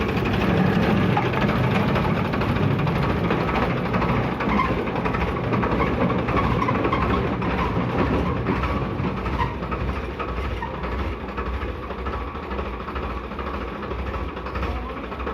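Heavy machinery's diesel engine running steadily, a little louder for the first several seconds and easing slightly after that.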